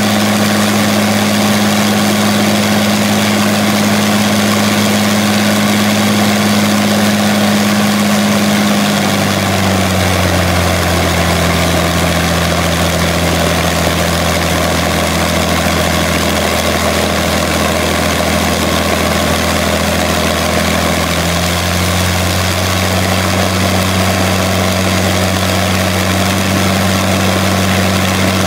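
Rolls-Royce Merlin 500-29 27-litre V12 aero engine with a single-stage, two-speed supercharger, running steadily on a test run. Its note drops a little about a third of the way in and comes back up about two-thirds of the way through.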